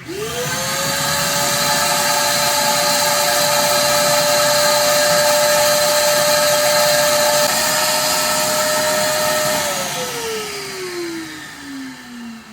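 Pump powering a Venturi oil extractor, switched on: it spins up within a fraction of a second to a loud steady whine with a hiss, runs for about nine seconds while sucking oil out of the engine sump, then is switched off and its whine falls away as it winds down.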